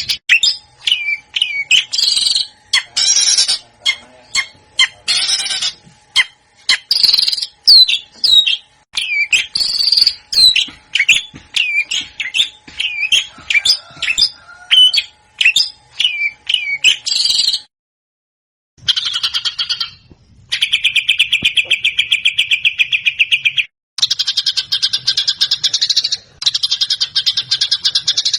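Songbird song: a quick run of varied short whistled notes and chirps, then after a brief break, long fast rattling trills, one lower-pitched and a higher one near the end.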